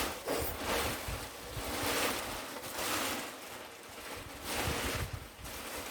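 Plastic tarp rustling in repeated swells as it is pulled and spread over a bonfire woodpile, with wind buffeting the microphone.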